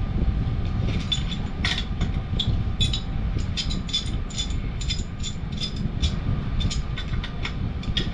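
Many quick, irregular metallic clicks and clinks of hand tools and metal parts being worked on a furnace gas valve, several a second, over a steady low rumble.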